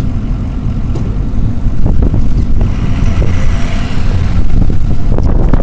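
Low, steady rumble of a vehicle running, heard from inside the cab, with a hiss that swells and fades about halfway through.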